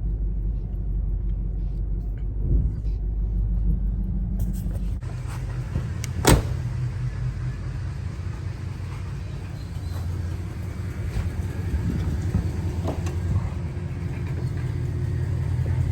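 A car's stock V8, by the owner's look a throttle-body-injected 350, running with a steady low rumble. The sound changes about five seconds in, and there is a single sharp knock just after six seconds.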